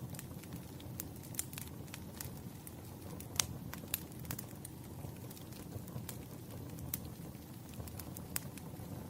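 A wood fire burning, with a steady low rumble and irregular sharp crackles and pops, the loudest pop about three and a half seconds in.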